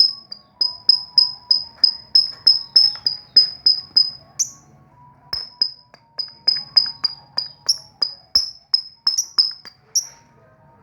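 Lovebird in breeding condition giving a rapid, even run of short high chirps, about four a second, with a brief pause near the middle, stopping shortly before the end.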